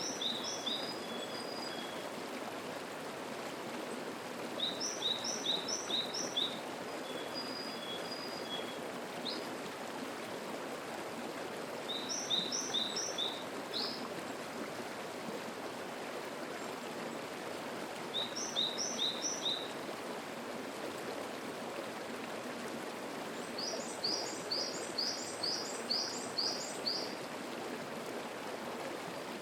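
Mountain stream flowing steadily, with a small songbird singing short phrases of quick repeated high notes about every six seconds. The last phrase, near the end, is longer.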